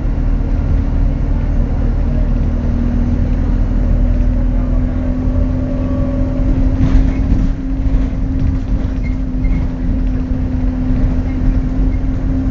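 Alexander Dennis Enviro200 bus engine running under way: a steady low drone with a held whine on top, which the uploader calls a weird turbo whistle. A few short rattles come about seven to eight seconds in.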